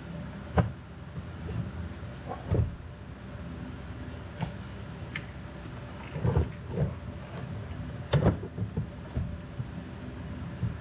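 Scattered knocks and clunks of a third-row seat assembly being handled and set back into place in the cargo floor, a few sharp bumps with quieter rattles between them, over a steady low hum.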